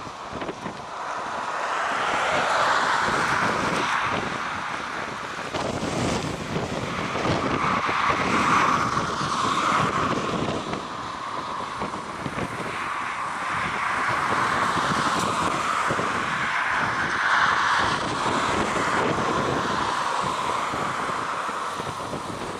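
Strong, gusty wind buffeting the microphone, with a rushing noise that swells and fades every few seconds.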